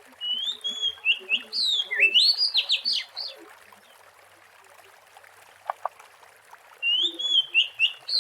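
Oriental magpie-robin singing: a phrase of clear whistles and quick rising sweeps lasting about three seconds, then a pause broken by two short clicks, and the same phrase starting again near the end.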